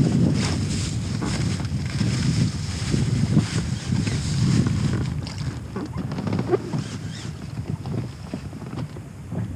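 Wind buffeting the microphone, an uneven low rumble, with a few faint clicks and knocks.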